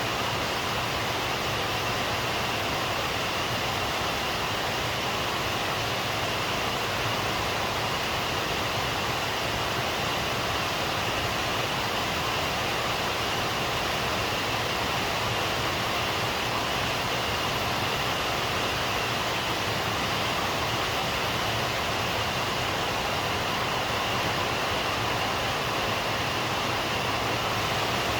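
Steady, even rain falling, with no breaks or thunder claps.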